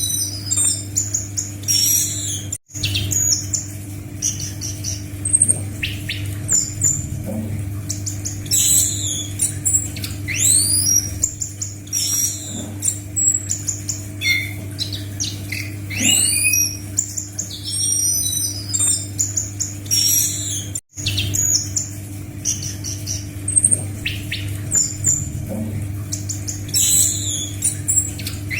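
Anis macan (a thrush) singing vigorously: a fast, continuous run of high chirps, trills and sweeping whistles over a steady low electrical hum. The sound cuts out completely for an instant twice, about 18 seconds apart.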